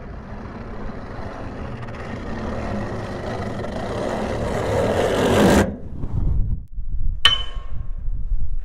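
Traffic noise swells into a rushing wash for about five seconds, then cuts off suddenly. A low rumble follows, then a single sharp metallic strike that rings on.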